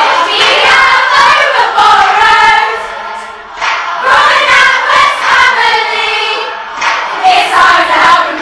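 Large choir of teenage girls singing together, with a short break between phrases about three seconds in.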